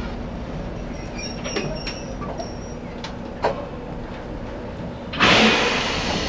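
Izuhakone 1100 series electric train standing at the platform with a steady low hum and a few light clicks. About five seconds in comes a sudden loud hiss.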